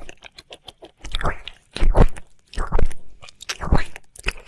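Close-up ASMR ear-licking mouth sounds: wet licks and smacks, four louder ones in a steady rhythm a little under a second apart, with small wet clicks between them.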